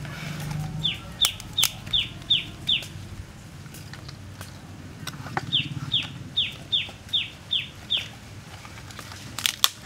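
A bird calling: a run of six short, high notes, each falling in pitch, at about three a second, then after a pause a second run of seven. Dry sticks clatter as they are laid, most sharply near the end.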